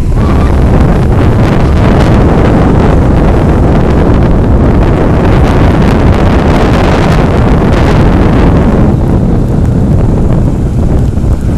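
Strong wind buffeting the microphone, a loud, dense rumbling rush that eases slightly near the end.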